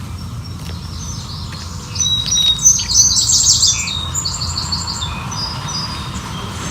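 Songbirds chirping and trilling, with quick runs of high notes that are loudest from about two seconds in to about four, over a steady low rumble.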